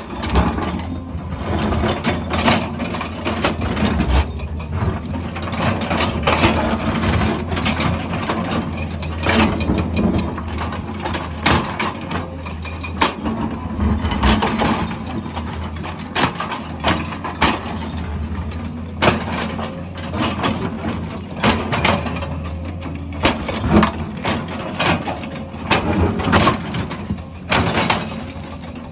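Excavator's diesel engine running steadily while its bucket works rock and soil, with many irregular sharp knocks and clanks of metal on stone.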